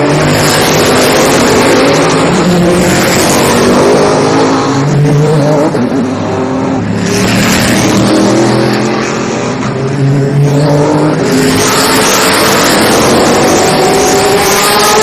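Sports racing cars passing at speed one after another, engines at high revs, the sound swelling with each pass.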